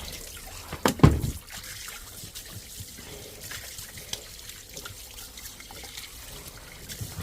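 Water trickling and dripping away down a just-unblocked outside drain, with a single loud knock about a second in.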